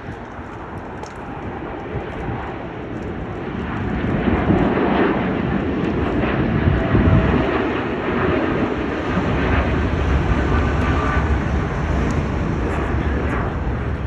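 Jet airliner engines rumbling as the plane passes, growing louder about four seconds in and then holding steady.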